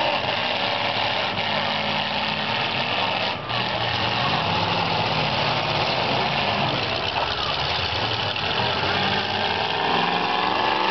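Several demolition-derby car engines running at once, a dense, steady mix of engine noise, with one engine's pitch rising as it revs near the end.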